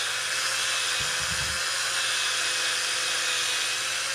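Electric drill running at a steady speed with a constant whine, spinning an engine valve while sandpaper scours carbon deposits off it. A brief low rumble of contact comes about a second in.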